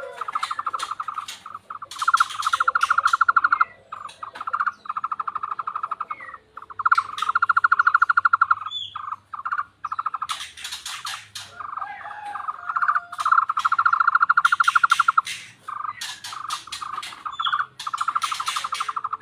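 Tohtor bird calling in a rapid, frog-like trill: long trains of fast pulses on one pitch, each about one to two seconds, repeated several times with short gaps and sharp clicks in between.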